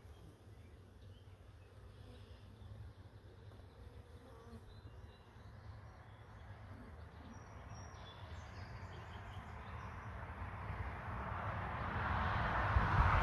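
Honeybees buzzing around a nuc opened for inspection: a faint, steady hum that swells louder over the last few seconds.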